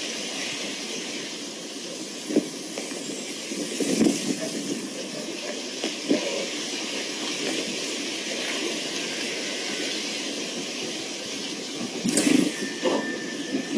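Steady hissing background noise, with a few faint short sounds and a louder stretch of mixed sound near the end.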